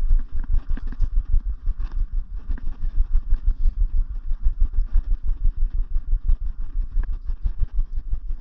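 Low, uneven rumble of a vehicle on the move, pulsing several times a second, with buffeting on the microphone.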